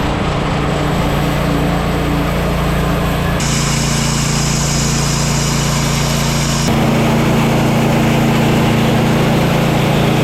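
An engine running steadily, its sound changing abruptly about three seconds in and again near seven seconds.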